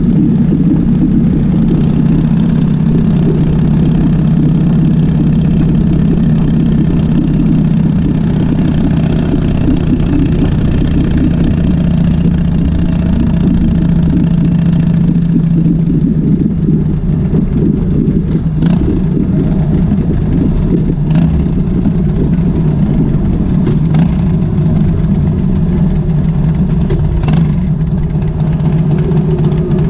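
2005 Harley-Davidson Softail Springer Classic's Twin Cam 88B V-twin engine running steadily, with a few faint ticks in the second half.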